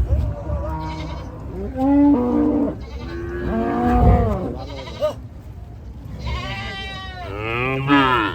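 Farm animals calling again and again, several calls overlapping, the longest near the end with a quavering, wavering pitch.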